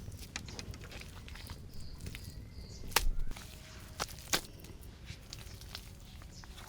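Scattered sharp knocks and clicks over a faint low rumble. The loudest comes about three seconds in, followed by two more about a second later.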